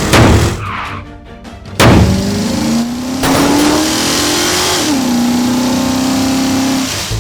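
Cartoon vehicle engine sound effect revving, its pitch rising steadily, then dropping to a steady hum about five seconds in. Two sudden loud hits come near the start, the second a little under two seconds in.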